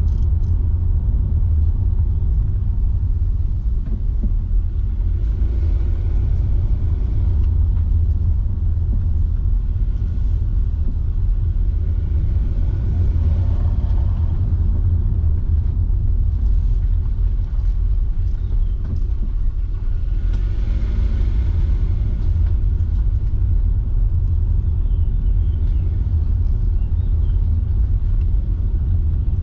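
Car driving along a road: a steady, loud low rumble of engine and tyre noise.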